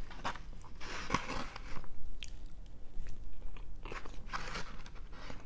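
A person biting and chewing crunchy food, with irregular crunches.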